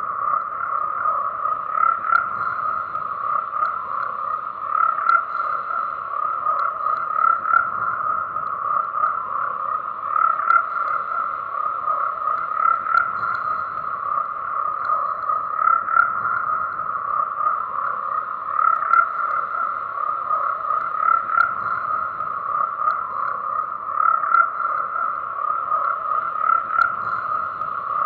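A chorus of frogs calling continuously, the calls overlapping into one dense, steady sound with no pauses.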